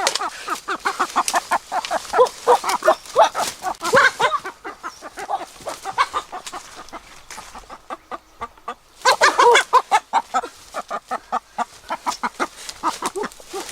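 Chickens clucking and squawking: many short calls in quick succession, easing off briefly about eight seconds in, then starting up again.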